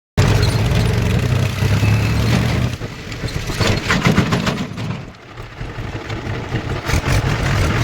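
Heavy vehicle engine running steadily, easing off about three seconds in, with a few knocks and clatter before the steady running returns near the end.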